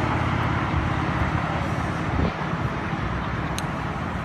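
Road traffic going by: a steady rush of cars passing on the road.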